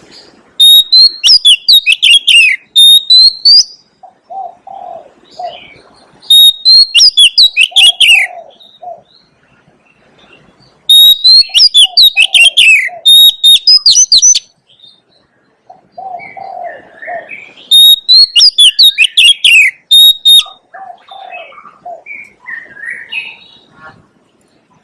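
Oriental magpie-robin singing loudly in four phrases of rapid, high whistles and trills, each lasting two to three seconds. Softer, lower notes come in the pauses between phrases.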